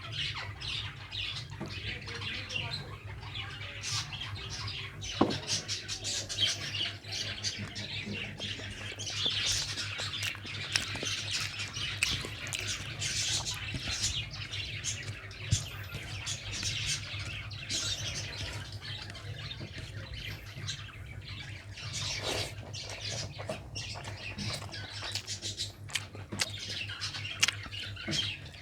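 Close-up eating sounds: chewing, lip-smacking and wet mouth clicks while eating chital fish curry with rice, over a steady low hum.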